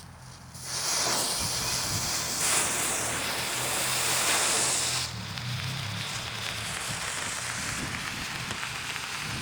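A lit novelty smoke ball hissing as it catches and burns, loud at first and then settling into a steadier, quieter hiss after about five seconds.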